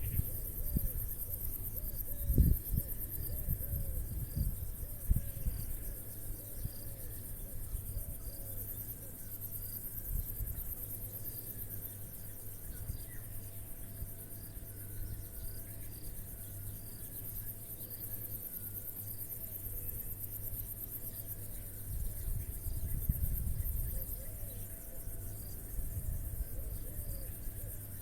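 Crickets chirring in a steady, high-pitched pulsing chorus, with a fainter call repeating about once a second. A few low thumps on the microphone come early and again near the end.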